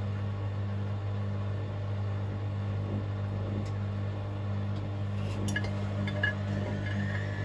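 Hoover washing machine on a spin cycle: a steady motor hum, with a thin whine beginning to rise near the end as the drum speeds up. From about five seconds in come a few sharp metallic clinks, a rattle the owner puts down to a £1 coin loose under the heating element.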